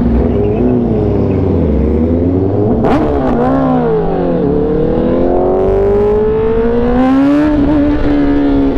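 Sportbike engine on the move, its pitch falling and climbing with the throttle, then rising steadily for a few seconds as it accelerates and levelling off into a steady cruise note.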